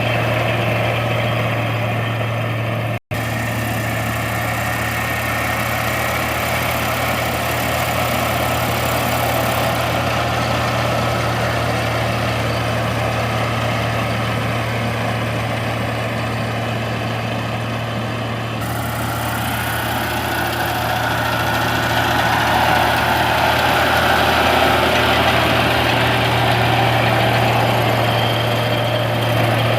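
Heavy farm machine's engine running steadily with a deep, even hum. The sound cuts out for an instant about three seconds in, and its tone shifts slightly a little past halfway.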